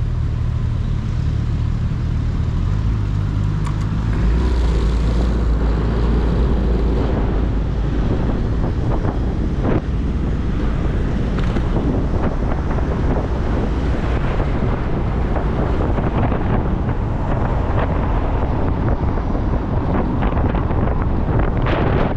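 Motorcycle engine running while riding, with wind buffeting the microphone. The wind noise gets louder from about four seconds in.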